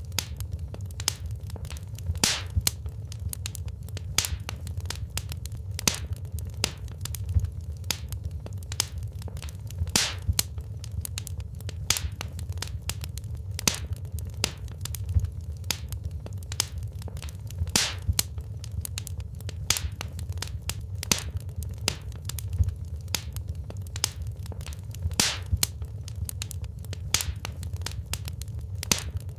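Wood fire burning in a fireplace: irregular crackling and snapping pops over a steady low rumble of the flames.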